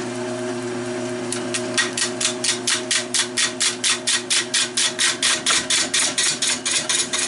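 Wood lathe running with a steady motor hum. About a second in, a turning tool starts cutting the spinning fatwood blank, making rhythmic scraping strokes about four times a second.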